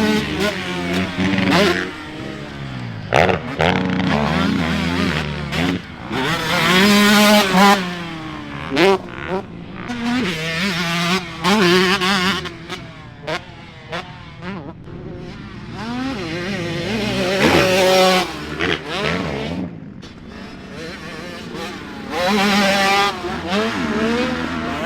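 Motocross dirt bike engines revving hard, their pitch climbing and dropping over and over as they accelerate and shift. The loudest passes come about seven and about eighteen seconds in.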